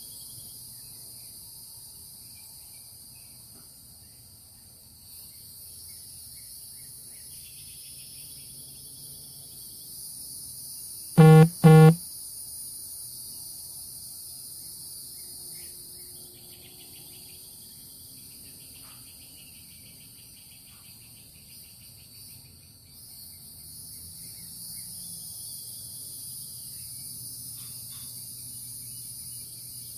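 Steady high chorus of crickets and other insects, with scattered faint bird calls. About eleven seconds in, two short, loud pitched beeps come in quick succession.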